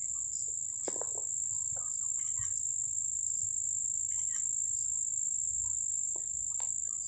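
Steady high-pitched insect trill running without a break, with a few faint short chirps and a brief knock about a second in.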